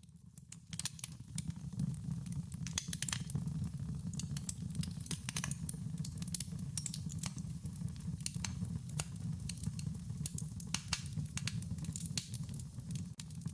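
Campfire crackling: irregular sharp pops and snaps of burning wood over a steady low rumble of the flames, growing louder about a second in.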